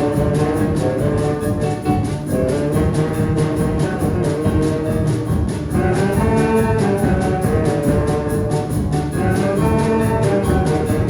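A children's brass band playing a tune, trumpets and trombones over a steady beat.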